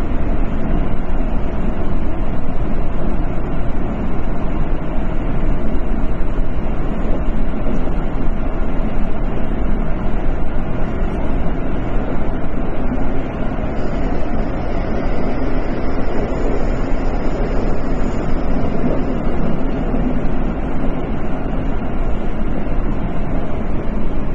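Tokyo Metro 10000 series train running between stations: a steady rumble of wheels on rails and running gear. A faint high whine comes in for a few seconds around the middle.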